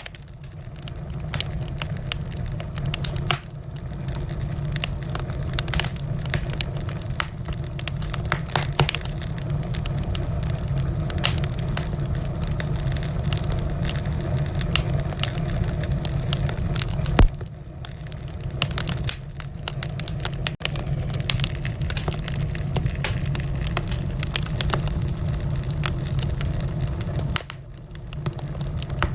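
Wood fire burning in a fireplace, crackling steadily with many small snaps over a low rumble, and one louder pop about seventeen seconds in.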